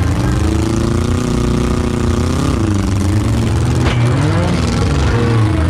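Demolition derby car engines running loud, the pitch bending up and down as they rev, with a short knock about four seconds in.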